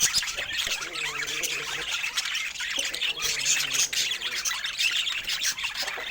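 Pet budgerigars chattering: many short chirps, squawks and warbles overlapping without a break.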